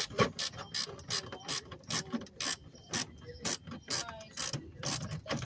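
Hand ratchet clicking in short, uneven strokes, a few clicks a second, as 10 mm fasteners on the under-engine cover are worked loose.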